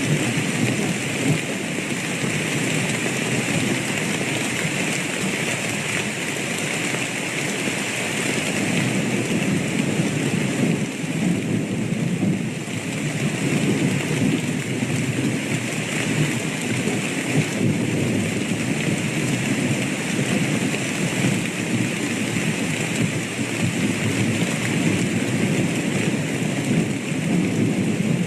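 Steady rain falling, with low rolling thunder underneath and no sharp claps.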